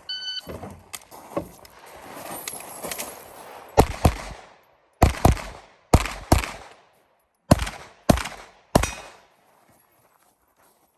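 A shot timer beeps once at the start, then a pistol fires nine shots, mostly in quick pairs, starting about four seconds in and ending about nine seconds in.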